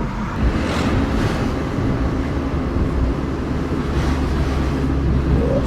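A car's engine and road noise heard from inside the cabin while driving: a steady low rumble.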